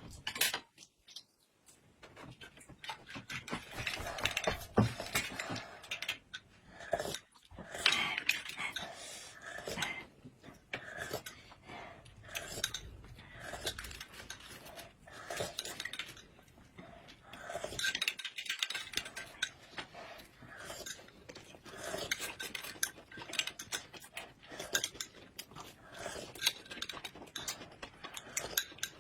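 Utensils clinking and scraping against bowls and plates during a meal, in many short irregular clicks, with brief pauses about a second, seven seconds and eighteen seconds in.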